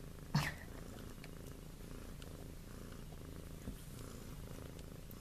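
A cat purring steadily and softly, with one brief rising squeak about half a second in.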